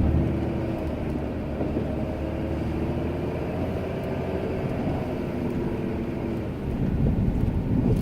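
Ram 2500 pickup's engine running steadily with a low rumble, growing louder near the end.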